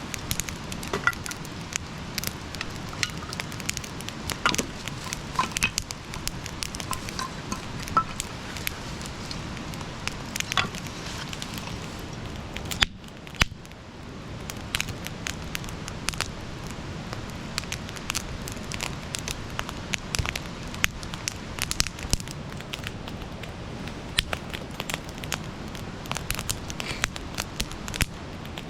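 Wood campfire crackling: frequent sharp pops and snaps over a steady low hiss, with a couple of louder cracks about thirteen seconds in.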